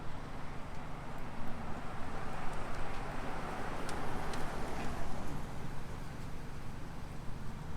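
Steady low outdoor traffic rumble with a vehicle passing, its tyre noise swelling and then fading over a few seconds, and a few faint clicks near the middle.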